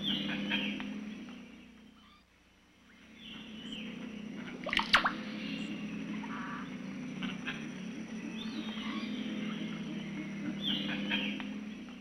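Birds chirping and calling in short, falling notes over a low steady drone. The sound fades out briefly near two seconds and comes back, and a sharp snap about five seconds in is the loudest sound.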